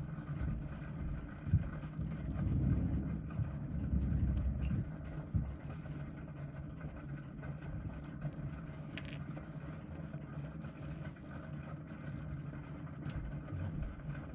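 Small metallic clicks and taps of watchmaker's tools and tiny movement parts handled at the bench, a few sharper ticks among them, over a steady low hum.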